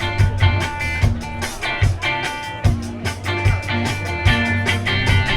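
Live band playing an instrumental passage with no singing: guitar chords over a steady bass line and a regular drum beat.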